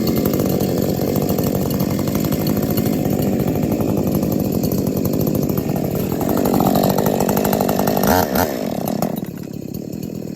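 Two 50cc two-stroke chainsaws, a Husqvarna 346XP and a RedMax GZ5000, running together while being warmed up. About nine seconds in, the sound drops noticeably and carries on quieter.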